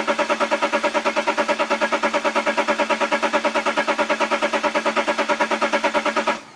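Diesel car engine cranking on its starter motor: a steady whine pulsing evenly about ten times a second with each compression stroke. It stops abruptly near the end.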